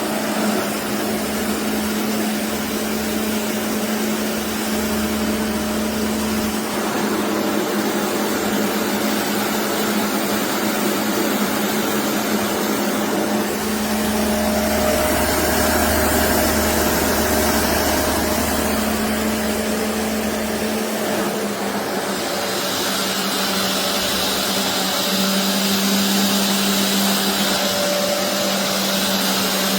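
BISSELL Revolution HydroSteam carpet washer's suction motor running steadily with a hum and a hiss of air. The sound grows louder about halfway through and the hiss gets brighter about two-thirds of the way in.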